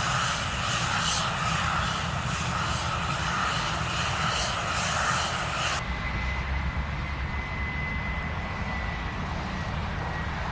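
Airliner engine noise from a passing plane. About six seconds in it cuts off suddenly and gives way to a quieter, steadier engine sound with a faint high whine.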